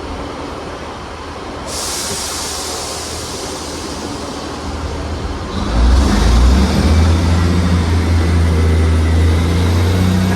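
Class 158 diesel multiple unit pulling away: a hiss of air about two seconds in, then its diesel engines open up about five and a half seconds in with a loud, steady low drone.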